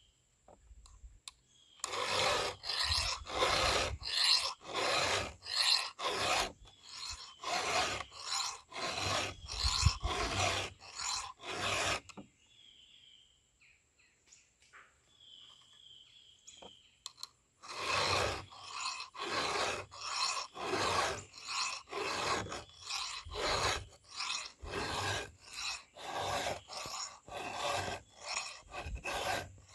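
Hand file rasping across a chainsaw chain's cutters in steady back-and-forth strokes, about one and a half a second. The strokes pause for several seconds midway, then start again.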